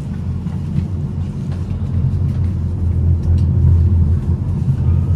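Tram running on its rails: a steady low rumble with faint clicks and rattles, swelling slightly midway.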